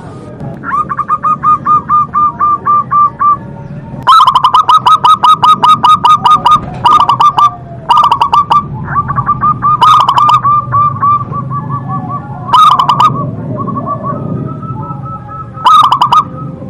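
Zebra doves (perkutut) cooing: rapid runs of short staccato notes that stop and start in phrases, with louder, sharper runs breaking in several times.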